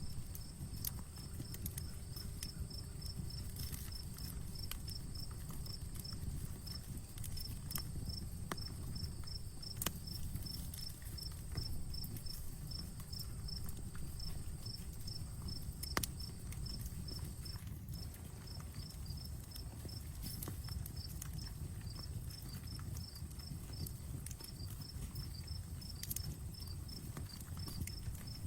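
Outdoor campfire crackling, with scattered sharp pops, the loudest about ten and sixteen seconds in, over a low steady rumble. An insect chirps in a steady rapid pulse throughout, with a thin high trill alongside.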